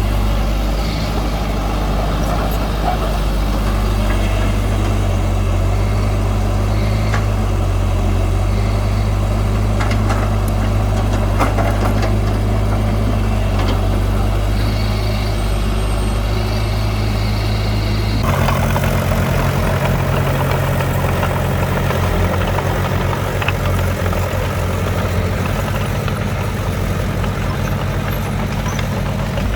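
Heavy diesel engines of earth-moving machinery running steadily, with a few short knocks. About two-thirds of the way through the engine sound changes abruptly to a lower note with a fast, even pulse.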